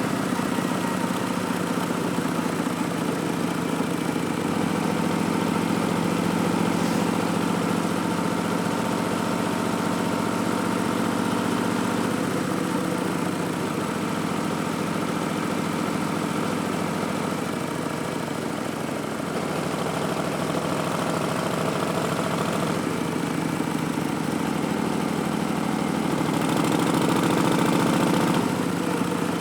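2019 Harley-Davidson Street Bob's Milwaukee-Eight 107 V-twin, fitted with Vance & Hines Twin Slash slip-on exhausts and an Arlen Ness Big Sucker intake, running steadily under way. The note shifts a few times as the throttle changes, swells about 26 seconds in, then drops back near the end.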